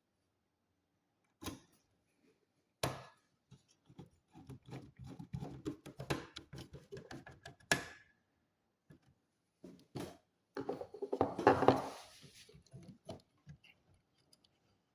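Hands working on a computer's parts: two sharp knocks, then a string of light clicks and taps, and a louder stretch of rustling and scraping about two-thirds of the way through.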